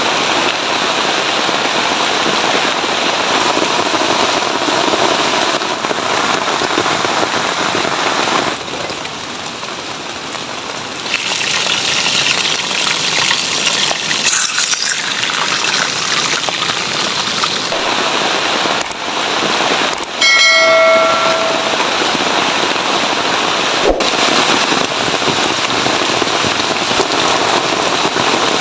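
Heavy rain falling steadily, a dense hiss that drops in level for a few seconds, with a few sharp clicks. About twenty seconds in, a brief pitched tone sounds over the rain.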